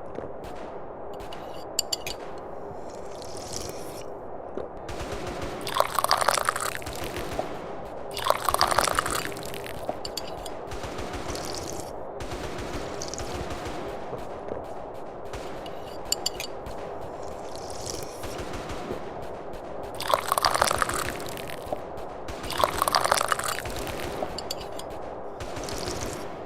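Loud slurping sips of tea from a cup, two sips a couple of seconds apart, the pair repeating about every 14 seconds over a steady background hiss.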